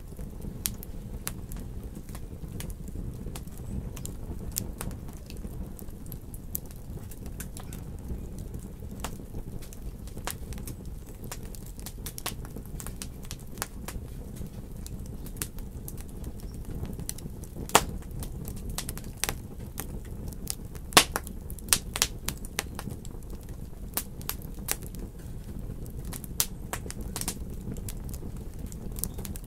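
Wood fire crackling in a fireplace: a steady low rumble of flames with scattered sharp pops, a few louder ones past the middle.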